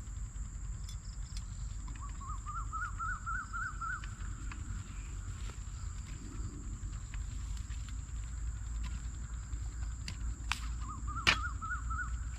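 Outdoor nature ambience: a steady high-pitched insect drone over a low rumble. Twice an animal calls in a quick run of short rising chirps. Near the end come two sharp clicks, the second one the loudest sound.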